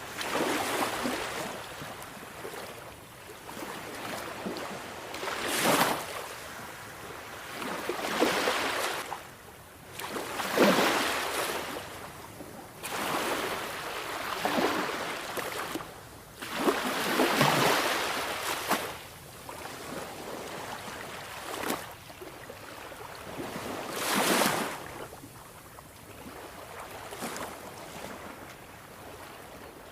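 Sea waves breaking and washing up, each surge of surf swelling and falling away every few seconds over a constant hiss of water.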